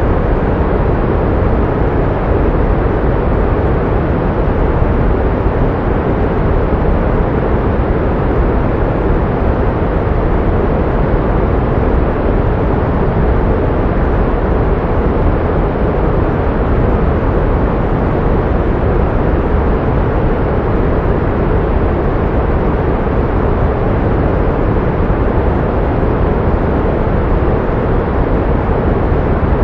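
Steady pink noise: an even, unchanging hiss weighted toward the low end, like a deep rushing sound.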